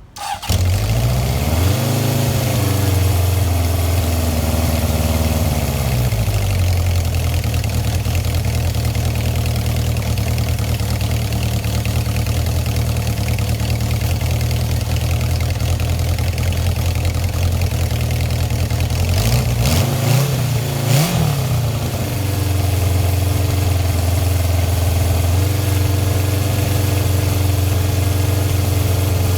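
1977 Honda CB750K's air-cooled inline four-cylinder engine starting from cold on choke, breathing through its drilled factory four-pipe exhaust. It catches at once and revs up, settles into a steady fast idle about six seconds in, takes one short throttle blip around twenty seconds in, then idles steadily again.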